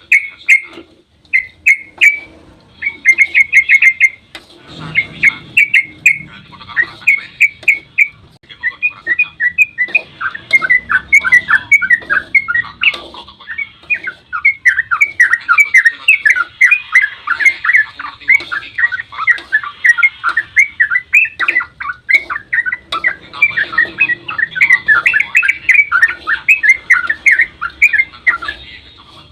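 Yellow-vented bulbul (trucukan) singing its long, fast 'ropel' song: a rapid run of short bubbling chirps that starts abruptly and grows denser and more continuous about a third of the way in.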